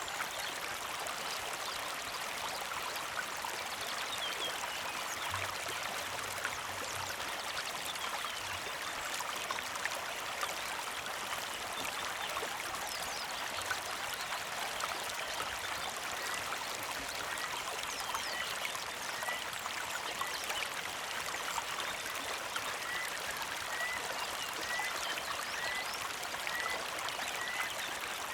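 Small mountain creek trickling and babbling steadily over stones. In the second half a bird gives a run of short chirps, about one a second.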